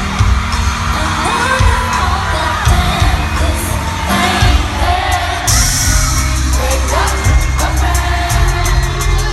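Live pop concert music heard from the front row through a phone: a woman singing over a heavy, pulsing bass beat with a steady hi-hat, the crowd underneath. A brief hissy burst comes about five and a half seconds in.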